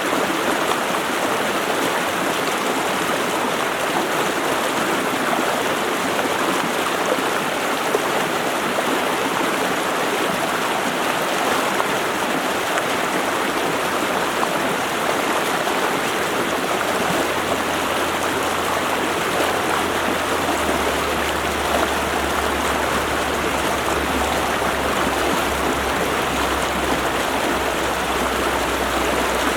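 Stream water rushing steadily over rocks, an even unbroken rush. A low steady hum joins about halfway through.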